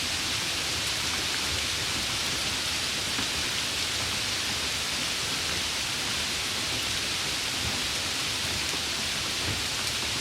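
Steady summer rain: an even, dense hiss of falling rain with faint scattered drop ticks.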